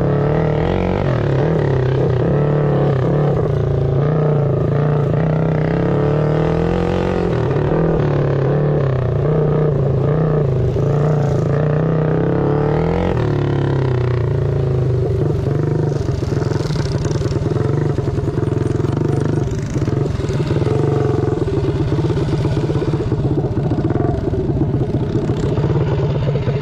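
Engine running, its pitch rising and falling with the throttle for the first half, then holding steadier from about halfway through.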